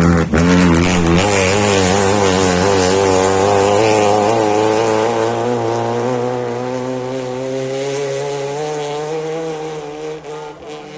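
Rally car engine held at high revs, its pitch wavering and slowly climbing, loud through most of the stretch and then fading away near the end.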